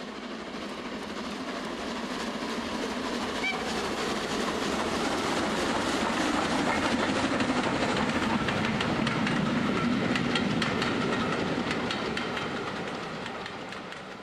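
A train passing: its wheels click rapidly over the rail joints. It grows louder towards the middle and fades away near the end.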